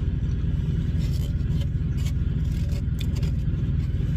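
Steady low rumble of a vehicle engine, with a few faint clicks.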